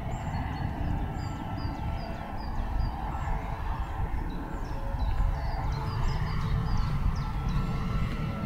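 Songbirds chirping: many short, high notes that drop in pitch, several a second, over a steady low rumble.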